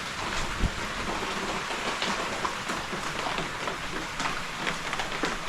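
Steady rain with many separate drops tapping and splashing as water runs and drips off plastic roof panels, and a brief low bump about half a second in.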